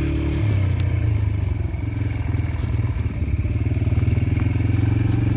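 Yamaha TT-R125LE dirt bike's single-cylinder four-stroke engine running as the bike is ridden, its engine note shifting about half a second in and again around two seconds in as the throttle changes.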